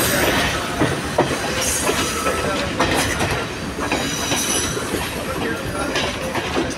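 Sri Lanka Railways S11 diesel-electric multiple unit running at speed, heard from an open coach doorway: a steady rumble and clatter of wheels on rail, with scattered knocks and a few brief high-pitched wheel squeals.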